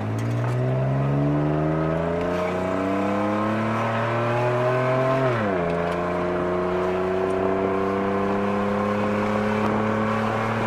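2002 Mercury Cougar's engine running through a muffler-deleted exhaust while driving: a low-toned note whose pitch climbs steadily under acceleration, drops sharply at an upshift about halfway through, then holds nearly steady as it slowly climbs again.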